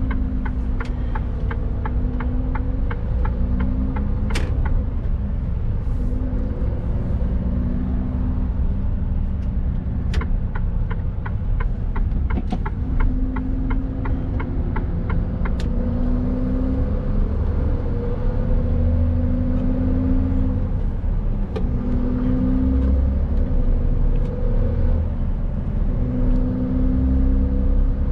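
Mercedes Actros truck's diesel engine running under way, with heavy low rumble from the drivetrain and road. The engine pitch climbs and breaks off again and again as it works through the gears. A regular ticking comes in twice, in the first few seconds and again about ten seconds in.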